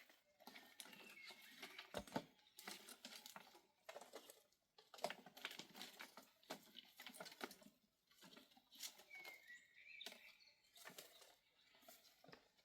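Near silence with faint, scattered small clicks and rustles, like light handling noises.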